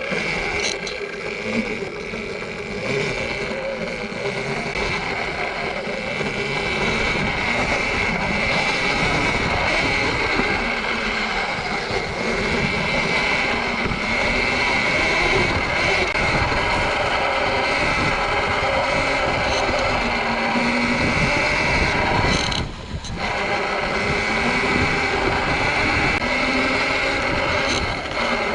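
Sur-Ron electric dirt bike being ridden: a steady electric motor and drivetrain whine over rushing tyre and wind noise, dipping briefly about 23 seconds in.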